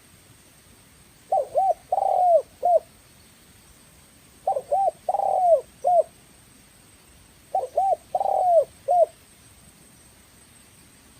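Spotted dove cooing: three four-note phrases, about three seconds apart.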